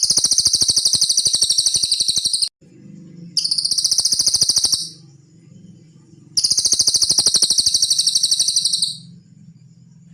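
Cililin song: three bursts of a rapid, very high-pitched trill of evenly repeated notes. The first lasts about two and a half seconds, the second is shorter, and the third, about two and a half seconds long, stops a second before the end. A low hum runs between the bursts.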